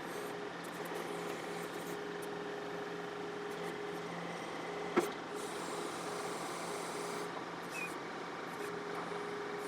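John Deere 4052R tractor's diesel engine running steadily under hydraulic load while the 485A backhoe digs. A single sharp knock about five seconds in.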